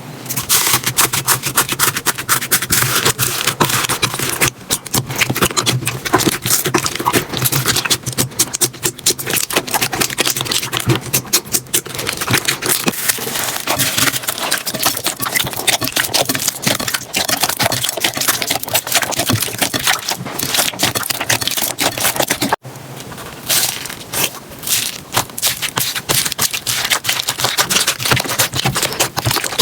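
Slime being squeezed and poked by hand, giving a dense run of rapid crackling clicks, with a short break about 22 seconds in before it starts again.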